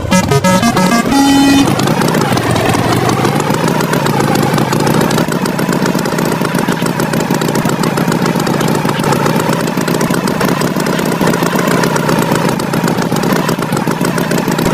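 A vehicle engine runs steadily with a wavering drone. It follows a short falling run of tones at the start.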